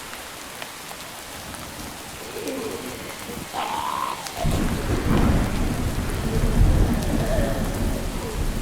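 Steady rain falling, with thunder rolling in about halfway through: a deep rumble that grows loud and keeps going.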